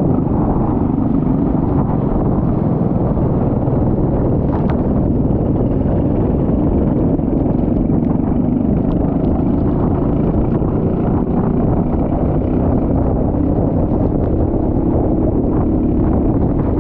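Go-kart engine running flat out through a lap, its note drifting up and down a little with the throttle, under heavy wind buffeting on the microphone.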